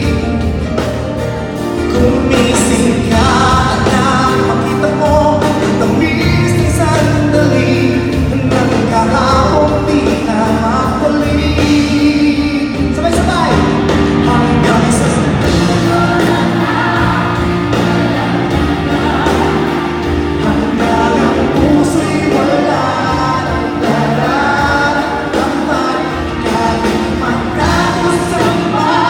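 Live pop ballad: a voice singing over band accompaniment.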